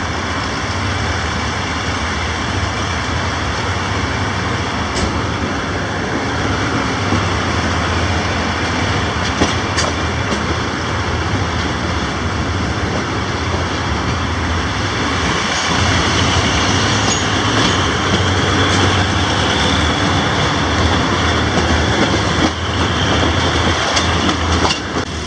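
Passenger train rolling along the track: a steady rumble of wheels and carriage with a few sharp clicks from the rails.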